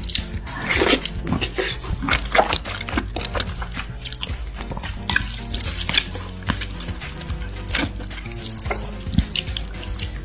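Close-miked wet chewing and lip-smacking of someone eating saucy food, with many quick sticky clicks, over quiet background music.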